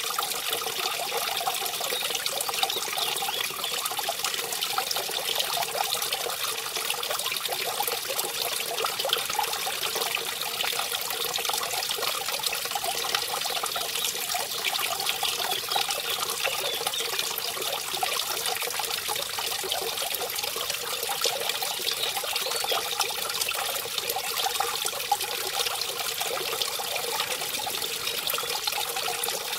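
Small mountain stream running over a little waterfall: a steady splashing and trickling.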